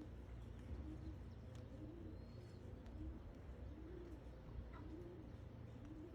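Qatif pigeons cooing softly, a low arched coo repeated about once a second, over a faint low hum.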